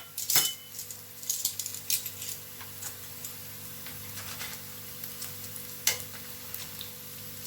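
Cooking oil sizzling steadily in a pan after frying onions, with a few scrapes and clinks of a utensil against the pan, the sharpest near the start and about six seconds in.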